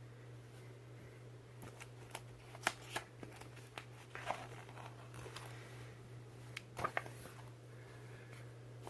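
Pages of a picture book being handled and turned: soft paper rustles and small clicks come in scattered bursts, over a steady low hum.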